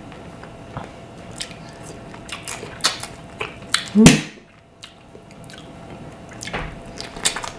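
Close-up eating sounds: wet chewing, smacking and sucking at sauce-covered shrimp and lobster, made up of many short sharp clicks, with one louder, longer sound about four seconds in.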